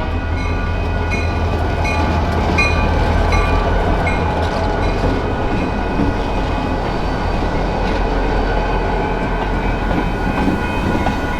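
Union Pacific transfer freight train passing at low speed: a steady low drone of diesel locomotive engines, with wheels clicking over rail joints about twice a second through the first half.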